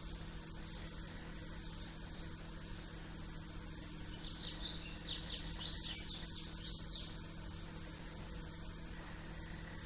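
Small birds singing: a run of quick, high, downward-sweeping notes about four seconds in, lasting a few seconds. A steady low hum underneath.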